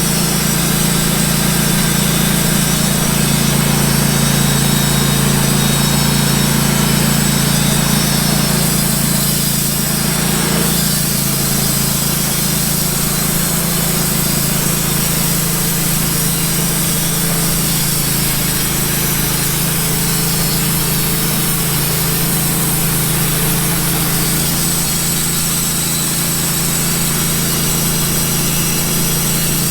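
Gas-engine saw running steadily under load, cutting through a maple log.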